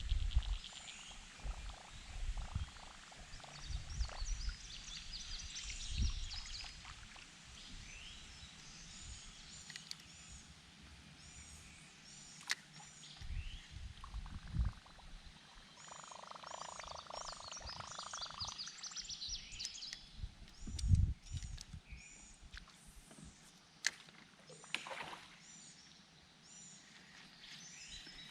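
Birds singing, a short high chirp repeated in runs of several notes, with a brief buzz about two-thirds of the way through. A few soft clicks and low knocks come in between.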